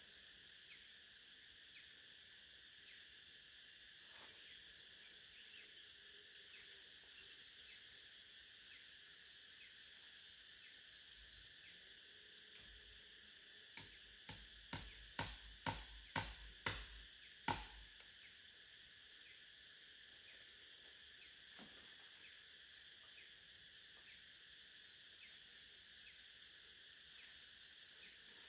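A faint, steady chorus of insects chirring, with small regular ticks. Just past the middle, a run of about nine sharp knocks comes over some four seconds, like blows of a blade on wood.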